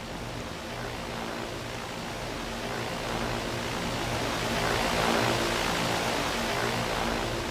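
Outdoor central air conditioner condensing unit running: a steady hum under the rush of air from its condenser fan. The air noise grows louder about halfway through and eases off toward the end.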